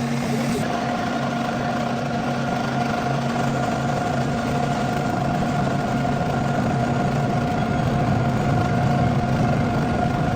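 Metal-working lathe running steadily: a constant machine hum with several steady tones over a noisy wash, changing abruptly at the very end.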